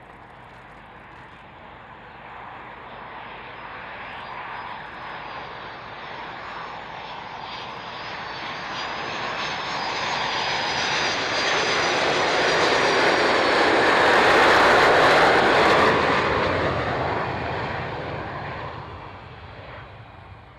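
A fixed-wing aircraft's engines passing the microphone: the noise builds steadily, peaks about three-quarters of the way through, then falls in pitch and fades as the aircraft moves away.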